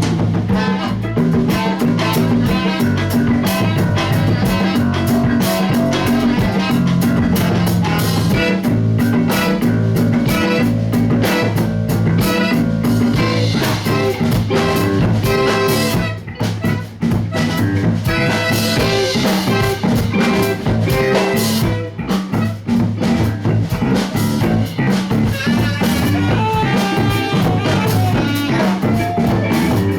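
Live band playing an instrumental passage, with a drum kit keeping the beat under guitar. The band briefly drops out twice, about halfway through and again a few seconds later.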